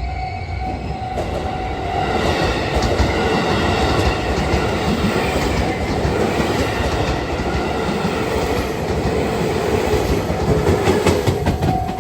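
JR 221 series electric train passing close by, a loud rumble and rushing noise that swells about two seconds in. Its wheels clatter over rail joints, with a run of clicks near the end.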